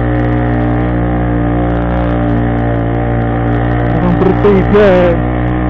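Motorcycle engine running at steady revs while climbing a hill, with a short spoken exclamation about four seconds in.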